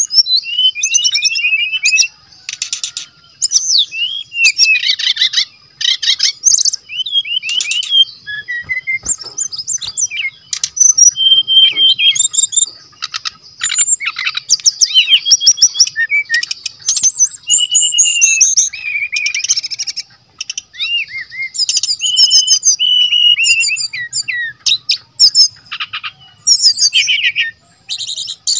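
Brown-chested jungle flycatcher (sikatan rimba dada coklat) singing loudly: a fast, varied run of chirps, slurred whistles and rattling trills in phrases a second or two long, broken by short pauses. A faint steady high tone runs underneath.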